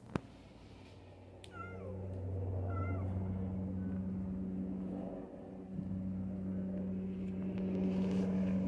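Sikorsky S-92A helicopter approaching: a steady low drone that swells in from about a second and a half in and stays loud, dipping briefly about five seconds in. Two short high calls bending in pitch sound over it about a second and a half and about three seconds in.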